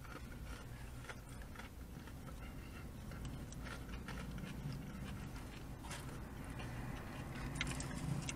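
Quiet chewing of battered fried fish with small mouth and eating noises and faint clicks, over a steady low hum.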